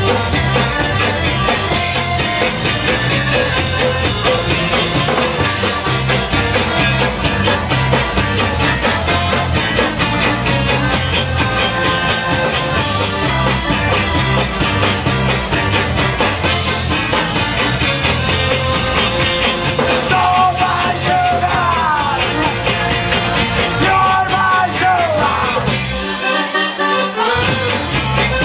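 A band plays an upbeat rock instrumental passage with a driving bass line and drums. About twenty seconds in, gliding high melodic lines come in, and the bass drops out briefly near the end.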